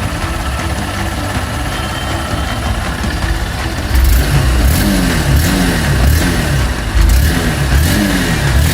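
A single-cylinder Honda Unicorn motorcycle engine running steadily. About halfway through, a rhythmic pattern of rising and falling tones with a sharp beat roughly every second comes in over it.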